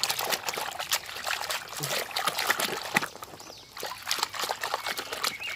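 Water trickling and splashing with small irregular clicks as a muddy plastic toy vehicle is washed.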